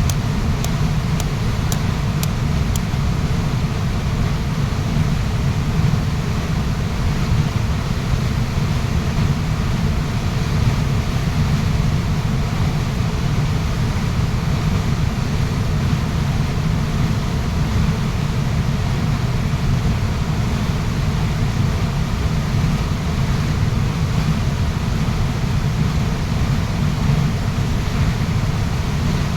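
Waterfall pouring steadily: a constant, deep rushing of falling water that does not change.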